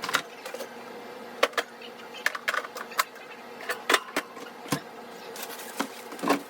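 Groceries being put away by hand: a string of short clicks and knocks as packages are handled and set down, with rustling of packaging near the end, over a faint steady hum.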